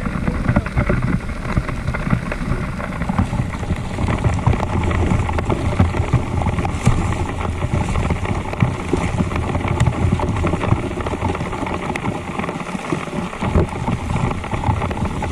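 Trail motorcycle engine running steadily, mixed with wind buffeting the microphone.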